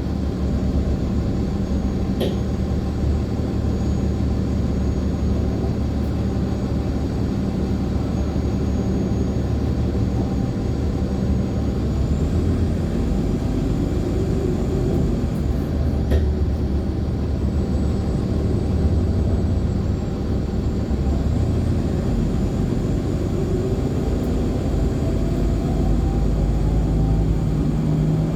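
Inside a moving NOVA LFSA hybrid articulated bus: the Cummins ISL9 diesel and Allison hybrid drive run with a steady low drone, overlaid by faint whines that rise and fall in pitch. Two sharp clicks, about two seconds in and again about sixteen seconds in.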